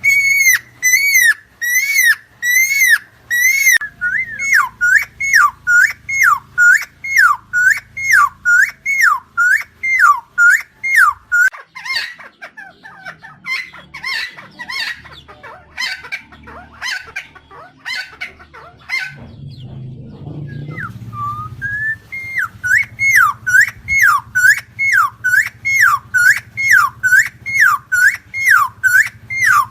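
Helmeted friarbird (Philemon buceroides) singing: loud, evenly repeated whistled notes, each dipping in pitch, about two a second. Partway through, the rhythm gives way to a scratchier, irregular run of calls, then the repeated notes return near the end.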